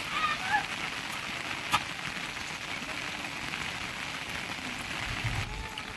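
Steady rain falling, a continuous even patter, with one sharp click a little under two seconds in.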